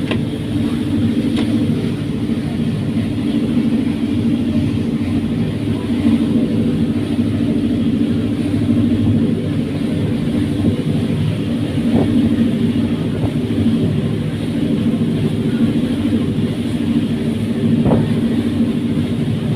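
Steady drone of a fast passenger ferry's engines under way, a low, even hum that holds level throughout.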